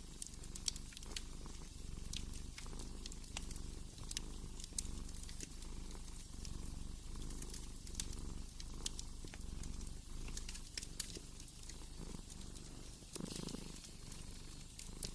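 A cat purring steadily, swelling and fading with each breath in cycles of about a second, over the scattered small pops and crackles of a wood fire.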